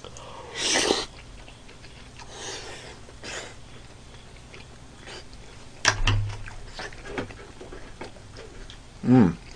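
A person chewing a mouthful of spicy stir-fried chicken (dak galbi) with perilla leaves, with a few short breathy mouth noises and a faint click. Near the end a short hum falls in pitch.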